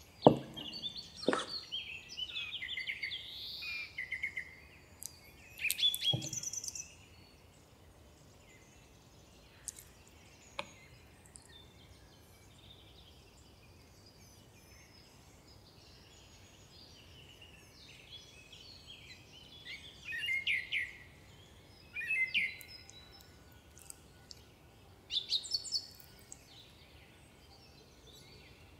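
Birds singing and chirping in several bursts over a quiet background, with a few sharp knocks in the first seconds.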